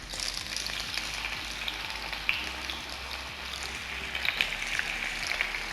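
Marinated chicken wings shallow-frying in hot oil in a pan: a steady sizzling hiss with scattered small pops and crackles.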